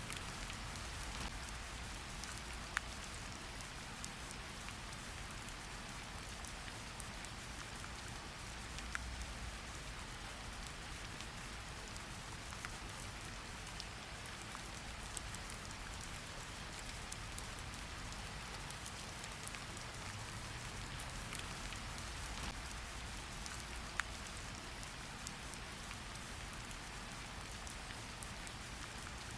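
Steady rain falling, an even hiss with single drops ticking sharply now and then.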